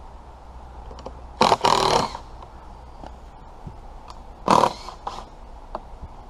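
Loud, harsh animal calls in two bouts, the first about a second and a half in and the second about four and a half seconds in, over a quiet background with no chainsaw running.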